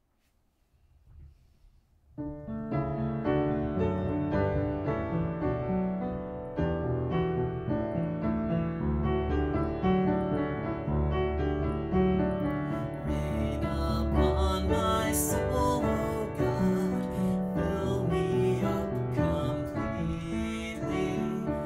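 Instrumental piano intro of a slow worship song, starting about two seconds in after near silence; partway through the sound grows brighter as more instruments join.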